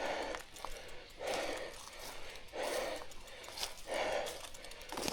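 A rider's hard, rhythmic breathing from exertion, a breath roughly every second and a half.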